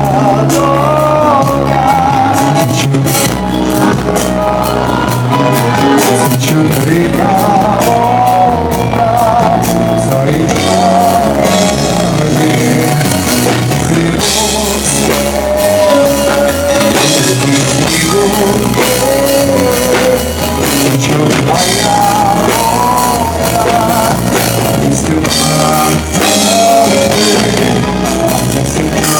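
Live pop band performing a song: a full band accompaniment with a wavering sung melody over it.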